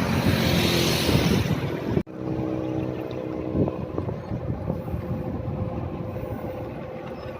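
Wind rushing over the microphone of a camera riding on a moving bicycle. About two seconds in it cuts off abruptly, and quieter road noise follows with a faint steady hum.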